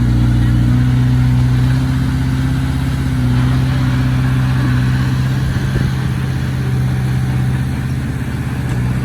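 Heavy diesel engine of earthmoving equipment running steadily at a constant speed, with a low, even hum.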